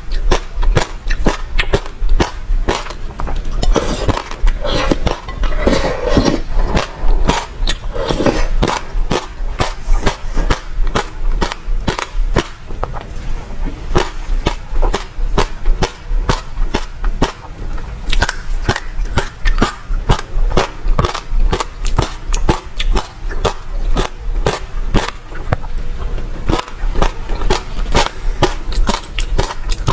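Close-miked chewing of passion fruit pulp, the seeds crunching in a fast, uneven run of sharp wet clicks and crackles, a little thicker for a few seconds early on.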